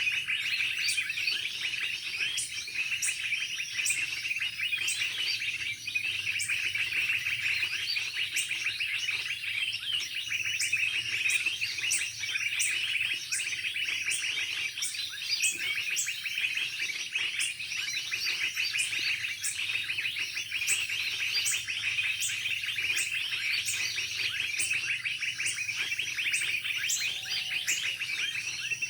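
Dense, continuous chirping and twittering of many small birds, with a short high tick repeating about once a second.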